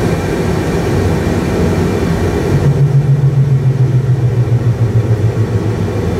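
Steady low rumble of a Boeing 737-800 full flight simulator's take-off sound: engine and airflow noise played through the cab speakers. About two and a half seconds in, a louder low hum joins and pulses gently.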